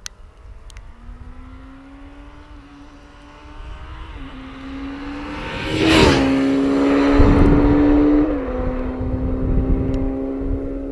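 Honda CB1000R's inline-four running through a Yoshimura R-77 exhaust, its note rising as it accelerates. It grows loud to a peak about six seconds in and holds a steady pitch, then steps slightly lower about two seconds later and eases off.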